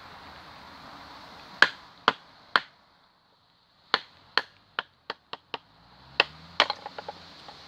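A bushcraft knife chopping into wood: about fifteen sharp knocks in uneven runs, three a second and a half in, a quicker run from about four seconds in, and a cluster near the end.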